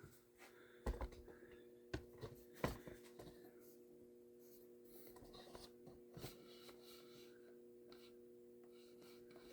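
Near silence over a steady faint hum, broken by a few faint, short clicks and taps of parts being handled, the clearest about a second in, around two and three seconds in, and once more past six seconds.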